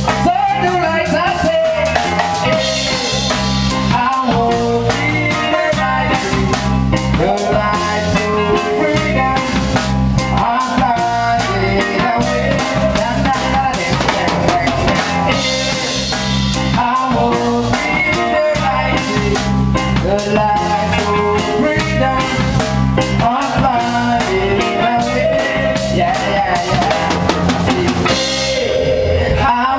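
A band playing an instrumental passage: a drum kit keeping a steady beat under bass and melodic instruments.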